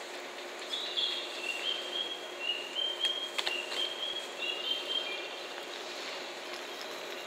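A 381-series electric train standing at the platform with its equipment humming steadily. Over the hum comes a run of short, high tones at a few stepped pitches for about four seconds, with a single sharp click in the middle.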